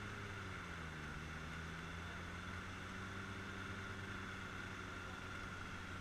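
Off-road 4x4's engine running, its note dropping about a second in and then holding steady, with a steady high whine alongside.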